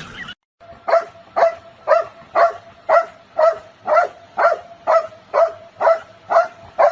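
An animal giving short, evenly spaced calls, about two a second, starting about a second in and repeating about thirteen times.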